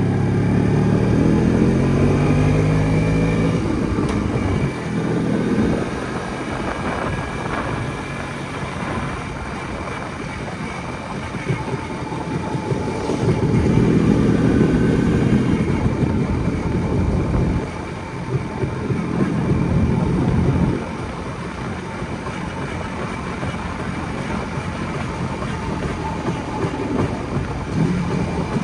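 Jawa 250 type 559's single-cylinder two-stroke engine running under way: it revs up with a rising pitch in the first few seconds, settles lower and quieter, then pulls harder again twice, around the middle and about two-thirds through, over steady riding noise.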